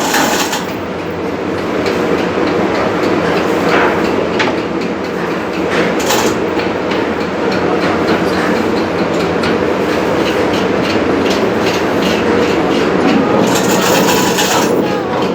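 Ship's diesel engine running steadily: a loud engine-room din with a rapid, even clatter, and short bursts of hiss about six seconds in and again near the end.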